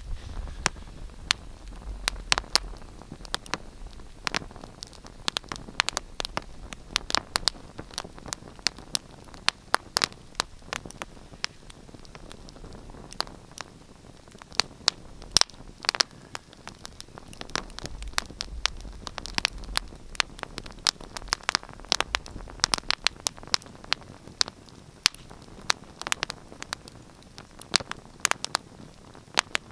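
Wood fire crackling in a fireplace: a steady hiss with many irregular sharp pops and snaps, several a second.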